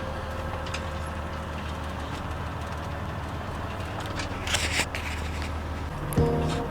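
Vehicle engine running with a steady low hum, heard from inside while creeping along slowly, with a brief scrape or rustle about four and a half seconds in. Radio music starts near the end.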